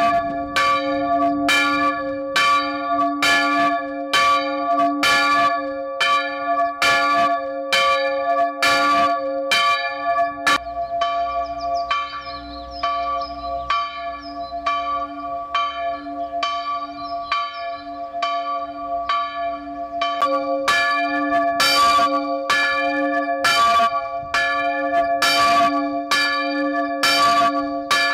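Swinging bronze church bell ringing steadily, about two strokes a second, each stroke leaving a long humming ring. About ten seconds in the strokes become softer and more distant over a low rumble, and about twenty seconds in they return loud and close.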